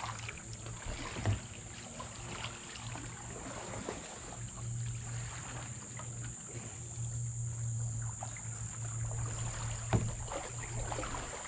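Kayak sounds on the water: soft paddle splashes and drips, with a sharp knock on the hull about a second in and another near the end. A steady high insect drone, typical of crickets, runs underneath.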